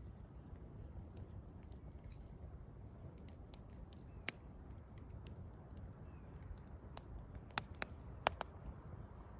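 Wood campfire crackling, with scattered sharp pops of burning firewood: a loud one about four seconds in and two more near the end, over a low steady rumble.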